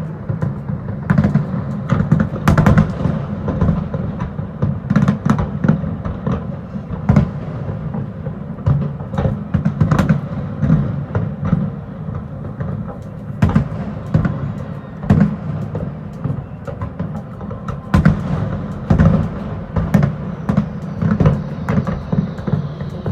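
Fireworks shells bursting in an irregular barrage: many sharp bangs, several close together at times, over a continuous low rumble of booms.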